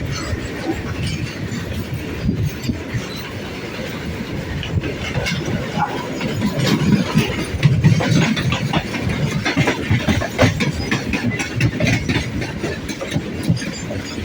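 Inside a MEMU electric train carriage running on the rails: a steady rumble from the wheels, with frequent clacks and rattles from the rail joints and the carriage body.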